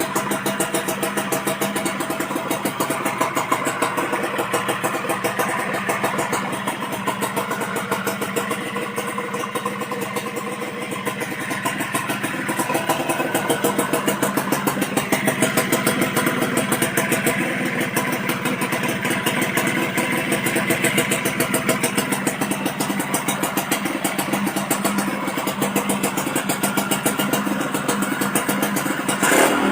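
Suzuki Crystal RC110's single-cylinder two-stroke engine running through a stainless tuned expansion-chamber exhaust, idling with a fast, even putter. About twelve seconds in the revs rise a little and hold slightly higher and louder.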